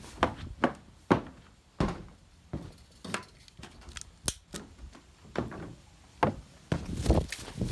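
A series of irregular knocks and thumps, about two a second, each short and sharp.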